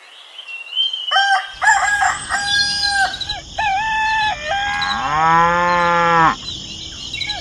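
Rooster crowing in a series of short calls for the first few seconds, then a cow's single long moo about five seconds in, with more rooster calls starting near the end.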